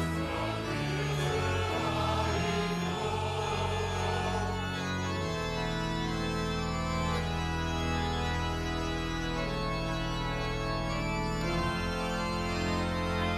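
Church choir singing with organ accompaniment; the voices end their phrase about five seconds in and the organ carries on alone with long, steady chords.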